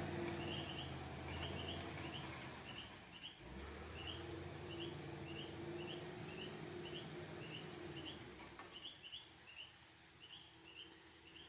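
Faint chirping repeating about twice a second, from a bird or insect, over a low hum that fades out near the end.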